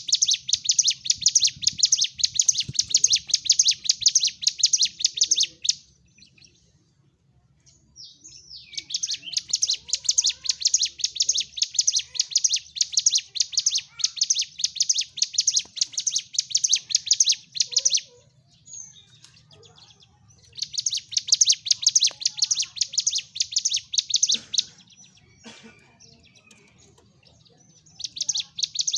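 Ciblek gunung (mountain prinia) singing in its agitated fighting mode: long, rapid, high chattering trills of many evenly repeated notes. There are three long bouts of several seconds each, separated by short pauses, and a fourth starts near the end.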